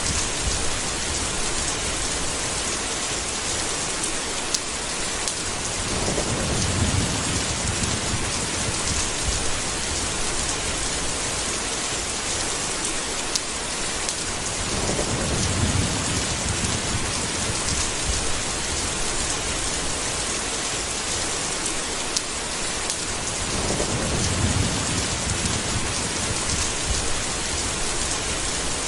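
Steady heavy rain with low rolls of thunder, three times, about eight or nine seconds apart.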